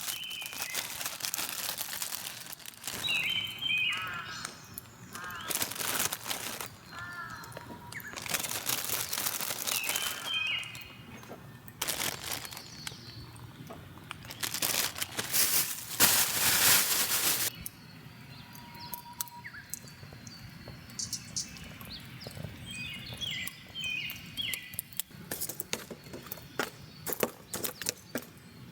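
Repeated bursts of rustling and crinkling, with a small bird chirping short phrases three times in the background. Scattered light clicks and taps take over in the last third.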